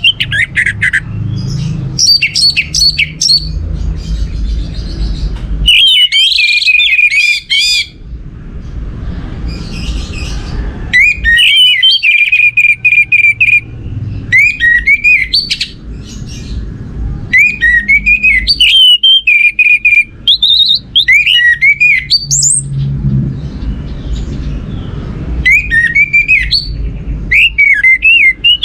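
Orange-headed thrush (anis merah) singing in repeated bursts of quick, varied whistled phrases with short pauses between them, over a low background rumble.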